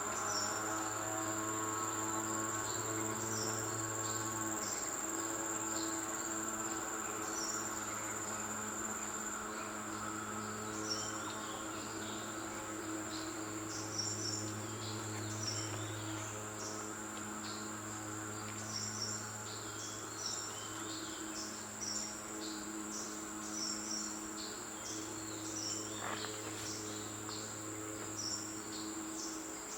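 Insects chirring: a steady high whine for the first several seconds and many short high chirps throughout, over a low steady hum. A single sharp click sounds about 26 seconds in.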